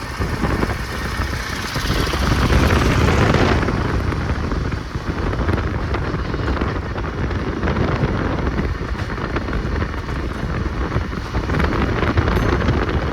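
A vehicle moving along a road with wind on the microphone: a steady rumbling noise, louder for a second or so about two seconds in.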